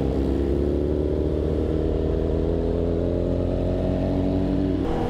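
Superbike engine pulling away under light throttle, its note rising slowly and steadily, then changing abruptly just before the end.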